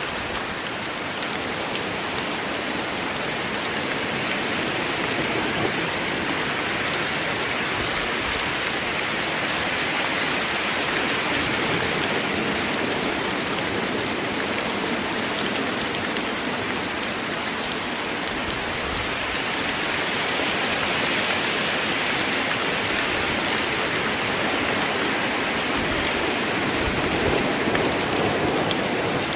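Steady rain falling in a forest, an even hiss of drops on leaves and ground. A low rumble starts to build near the end.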